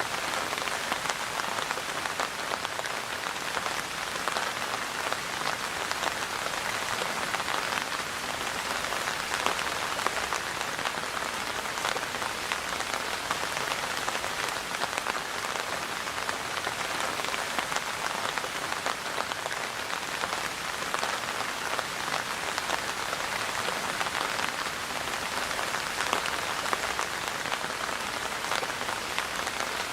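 Steady rain falling on a surface, a dense patter of many fine drops with no let-up.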